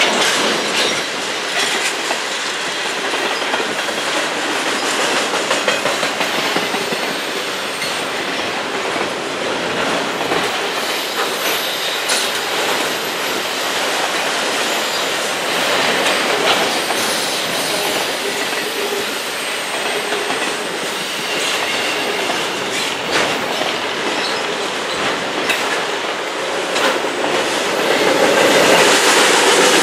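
Loaded freight cars, tank cars and autoracks, rolling steadily over a concrete railway bridge: a continuous rumble and clatter of steel wheels on the rails, with wheel clicks at rail joints and a faint high wheel squeal now and then.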